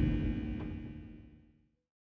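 Airbus A321 jet noise as heard in the cabin during takeoff and climb: a steady rumble with a constant engine whine, fading out over about a second and a half into silence.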